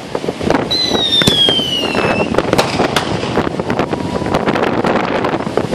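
Consumer fireworks going off: a dense string of pops and bangs. About a second in, a high whistle falls in pitch for about a second and a half.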